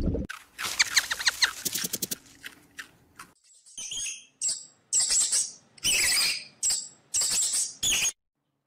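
Animal calls, bird-like: a rapid run of chirps and clicks, then a string of short, high-pitched squawks that stops suddenly.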